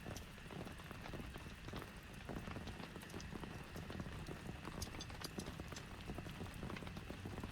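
Heavy rain falling, a dense steady patter with scattered sharp drops striking close by.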